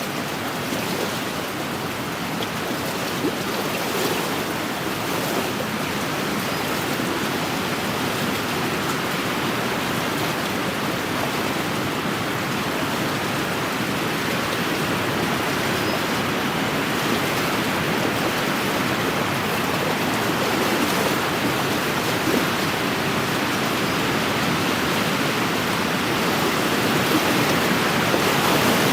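Wind-driven waves washing steadily against a lakeshore, a continuous rush of water that grows slightly louder near the end.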